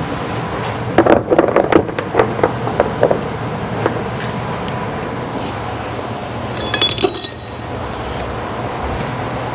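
Small metal parts clinking and clattering as they are handled and dropped, with a burst of knocks early on and a single ringing metallic clink about seven seconds in, over a steady low shop hum.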